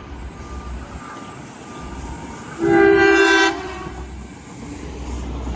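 A train's horn sounds one loud blast of about a second, a little over two and a half seconds in, over the low rumble of a train.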